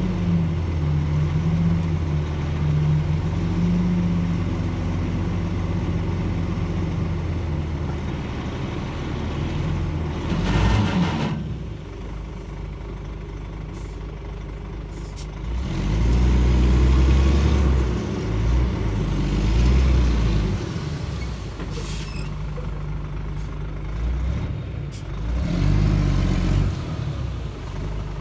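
Shantui DH17 C2 bulldozer's diesel engine running, swelling louder in several spells as it pushes soil under load. A short hiss about ten seconds in, and a few sharp clanks later on.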